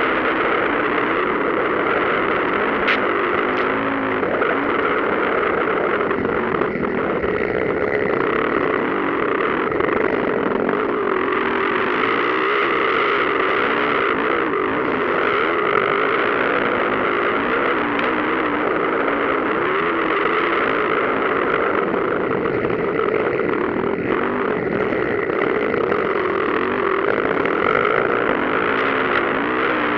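Motocross motorcycle engines revving up and down as the bikes race, with the pitch rising and falling continuously. The sound is heavily distorted.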